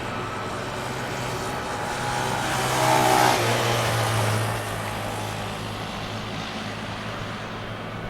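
A vehicle passes close by: its noise swells to a peak about three seconds in, the pitch falling as it goes past, then fades away over a steady low hum.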